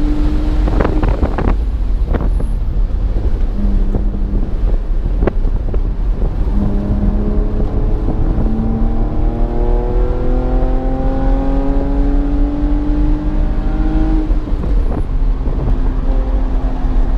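BMW engine under hard acceleration on a track lap, heard in the car over a heavy low rumble of road and wind noise. The engine note climbs steadily for several seconds, then drops about fourteen seconds in. A few sharp knocks come about a second in.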